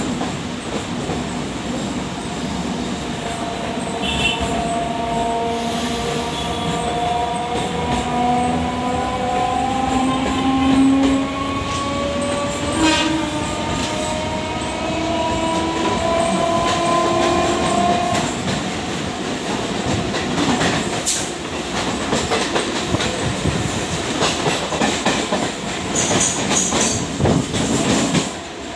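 Suburban electric local train running on the rails, with a steady rumble throughout. For much of the first half there is a long whine of several tones that slowly rises. In the second half there are repeated rattles and clacks of the wheels over rail joints.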